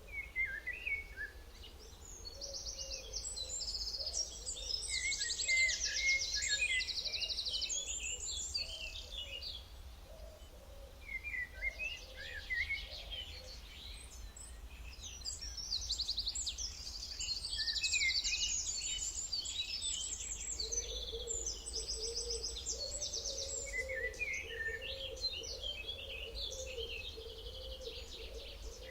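Several songbirds singing, with rapid trills and chirps overlapping and coming in three waves, over a low steady background hum.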